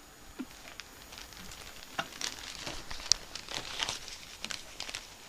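Paper crinkling and rustling in irregular crackles as a cat rolls around in it and paws at it, getting busier about two seconds in, with one sharper crackle near the middle.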